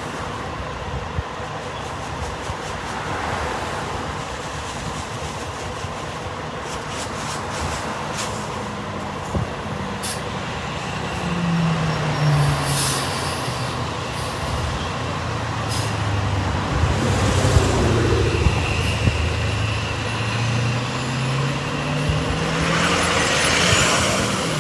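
Heavy truck engine running, its pitch dipping and then rising again over several seconds in the second half, with scattered clicks and a burst of air hiss near the end.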